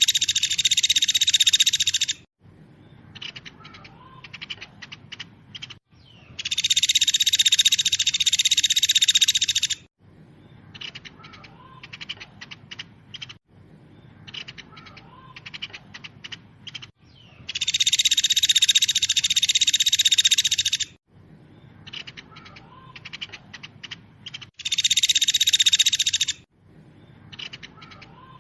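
Songbird training call (masteran) of fast, dense trilling in loud high-pitched bursts of one and a half to three and a half seconds. Four such bursts alternate with sparser series of quick chirps.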